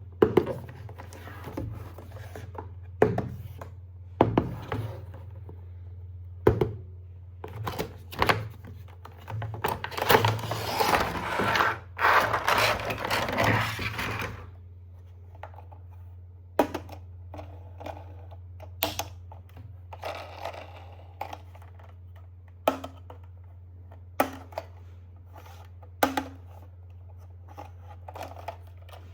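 Handling noise from toy packaging being opened: scattered clicks and knocks of plastic and cardboard, with a stretch of rustling and tearing from about ten to fourteen seconds in. A steady low hum runs underneath.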